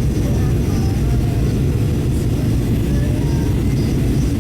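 Steady low cabin roar of a Boeing 737-800 in flight, the engines and airflow heard from inside the passenger cabin.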